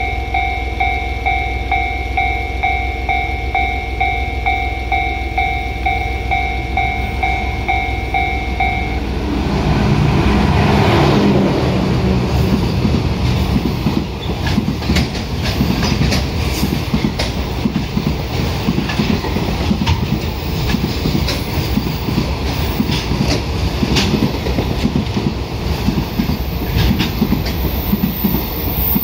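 A container freight train hauled by a JR Freight DF200 diesel-electric locomotive passing through: a steady diesel rumble with a rapidly pulsing warning tone that stops about nine seconds in, the locomotive going by loudest around ten seconds in, then the container wagons rolling past with a continuous clickety-clack of wheels on the rails.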